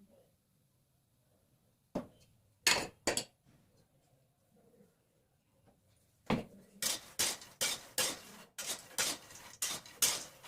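Metal spatula stirring in a metal kadhai, scraping and clinking against the pan: a few separate clanks at first, then from about six seconds in a quick run of scrapes, about three a second.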